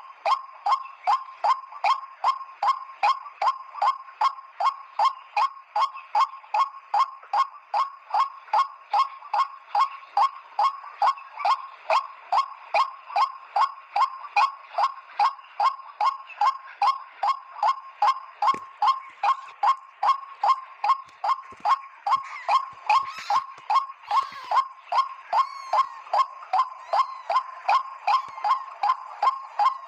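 White-breasted waterhen (ruak-ruak) call: a short bent note repeated evenly about twice a second in a long unbroken series.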